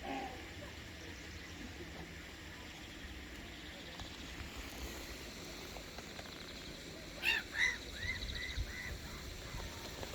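A bird calling over steady outdoor background noise: a loud short call about seven seconds in, then four quick repeated notes.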